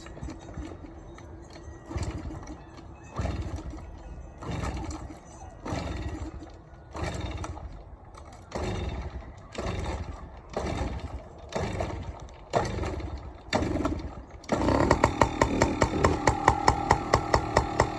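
A 1999 Yamaha PW50's small two-stroke single-cylinder engine being kick-started with the choke on: about a dozen kicks, roughly one a second, each turning it over briefly without catching. About three-quarters of the way in it fires and keeps running with a fast, pulsing beat, having been slow to draw fuel through to the carburettor after years unused.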